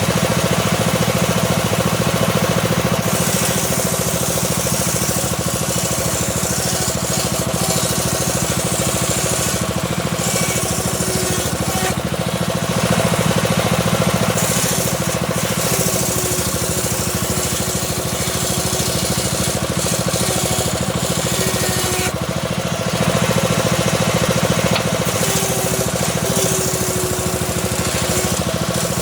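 Homemade circular saw rig running steadily while its blade rips a small teak log, the hum of the drive constant and a higher hiss of the cut coming and going several times as the wood is fed through.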